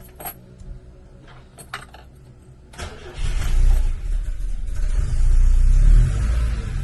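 BMW 2002 tii's four-cylinder engine cold-starting: a few sharp clicks, then about three seconds in it cranks and catches, swells in revs twice and settles into a steady, slightly high cold idle.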